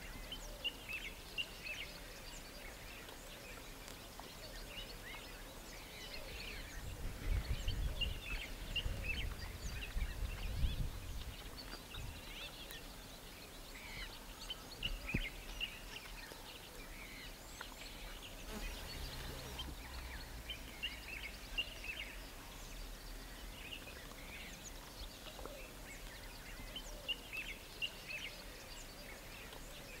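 Many small birds chirping and calling throughout, with a low rumble between about seven and eleven seconds in.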